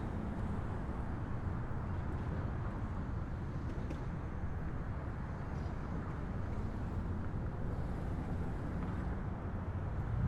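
Subway train running between stations, heard from inside the car: a steady low rumble of wheels on rail and running gear.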